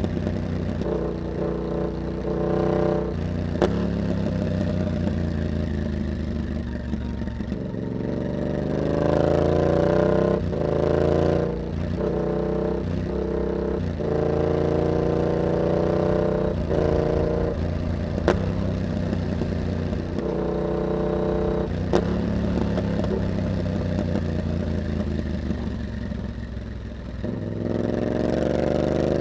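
Yamaha MT-07's 689 cc parallel-twin engine running through an aftermarket carbon exhaust fitted with a dB killer, pulling up through the revs several times with short breaks between pulls as the rider shifts and eases the throttle. A few sharp ticks sound over it.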